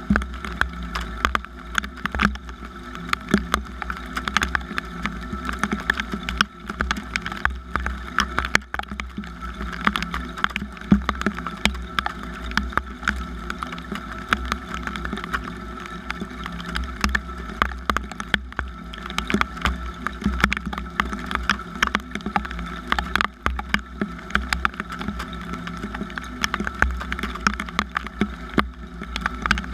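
Rain falling, with a dense, irregular scatter of sharp drop impacts over a steady low rumble.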